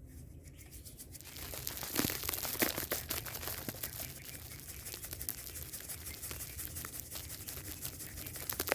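Food sizzling and crackling in a frying pan over a fire: a dense, irregular crackle that thickens about a second in and carries on.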